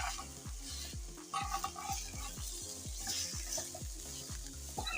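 French toast sizzling as it fries in a pan, over background music with a steady beat.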